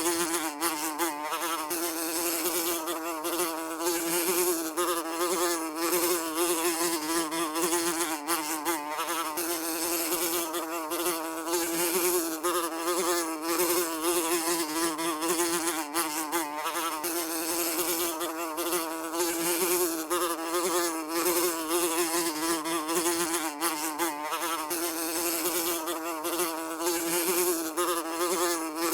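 Housefly buzzing without a break, a steady hum with a slight wavering in pitch.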